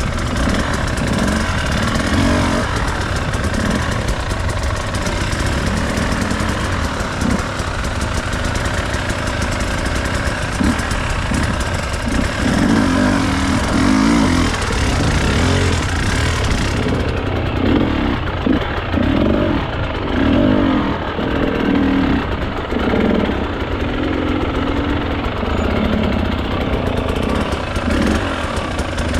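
Enduro dirt bike engine running under the rider, its revs rising and falling with the throttle while riding off-road. A high hiss over the engine drops away about two-thirds of the way through.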